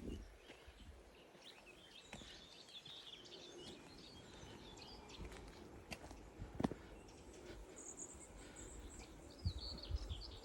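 Faint birdsong: small birds chirping and twittering on and off, with a few soft knocks, the clearest about two-thirds of the way through.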